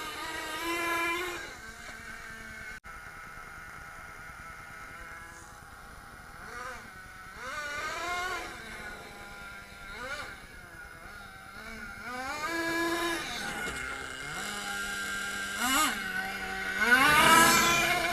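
Small nitro glow engine of an HSP Tornado radio-controlled monster truck running, its pitch rising and falling again and again as the throttle is worked, with the loudest rev near the end.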